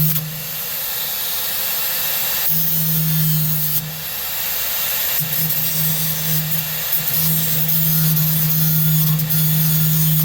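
Handheld electric grinder grinding metal, its motor tone coming and going in several stretches, the last one running about three seconds to the end.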